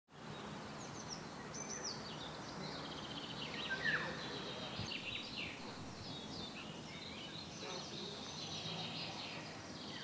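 Several wild birds singing at once, a mix of overlapping chirps, trills and short whistles, over a steady background hiss.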